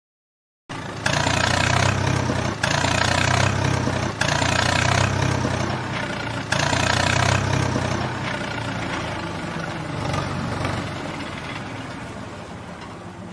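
A heavy vehicle engine running with a low, steady hum. It starts abruptly under a second in, has a few brief breaks, then slowly fades out toward the end.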